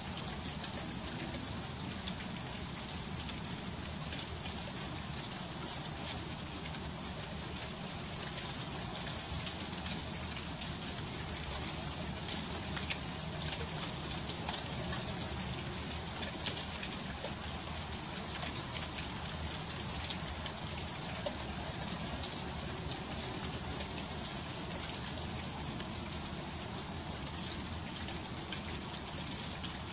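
Freezing rain falling steadily in an ice storm: an even hiss dense with small, sharp ticks of drops striking hard surfaces.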